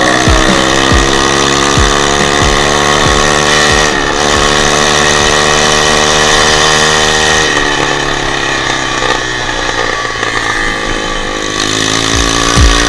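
Dirt bike engine revving up through the gears: its pitch climbs, drops at a shift about four seconds in, climbs again and drops at another shift a few seconds later, then runs lower and unevenly before rising again near the end.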